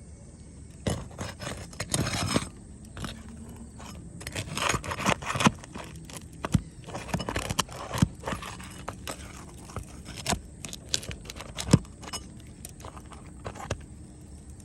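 Irregular scraping and crunching with scattered sharp knocks and clicks, in uneven clusters rather than a steady rhythm.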